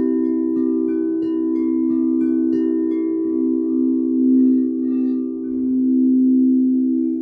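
Singing bowls sounding a sustained low ringing drone. For the first three seconds, struck chime-like notes ring over it about twice a second; then the drone carries on alone, swelling and wavering.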